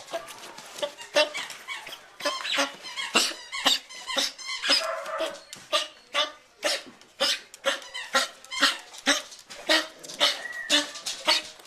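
A dog coughing over and over in a fit, with short harsh coughs coming about twice a second.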